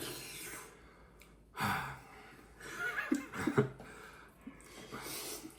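A person gasping and breathing hard through the mouth, with a few short voiced grunts, reacting to the burn of very spicy noodles.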